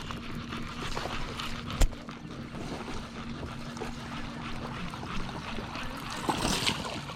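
Water trickling and sloshing around a kayak while a small bass is brought in. There is a single sharp knock about two seconds in and a louder splashing hiss near the end.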